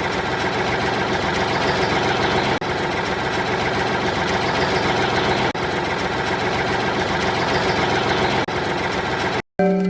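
Engine idling steadily with a tractor-like running sound, dropping out for a moment about every three seconds, then cutting off suddenly near the end.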